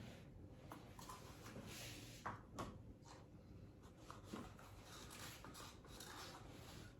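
Faint handling noise: soft rustles and a few light clicks, two slightly sharper ones about two and a half seconds in, over quiet room tone.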